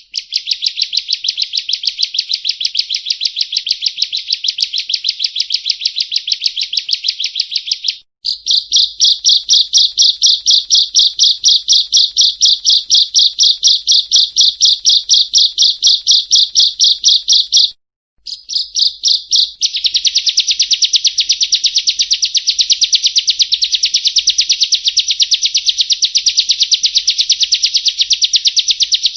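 Prinia (perenjak) calling: long runs of sharp, rapid, evenly repeated chirps, several a second, with two brief pauses about eight and eighteen seconds in.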